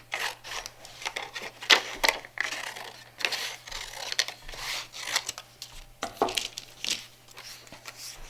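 Scissors cutting a tree shape out of paper: a run of irregular snips with the paper rustling as it is turned.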